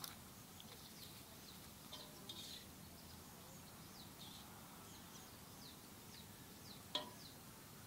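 Faint bird chirps: short, quick downward notes repeated every so often over a quiet background hiss, with one brief sharp click near the end.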